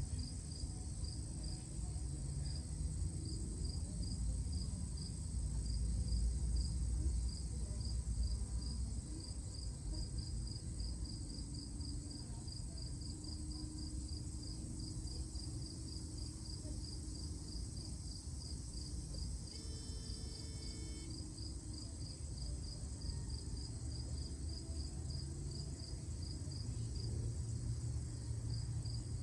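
High, evenly repeated insect chirping, about three chirps a second and steady throughout, over a low rumble.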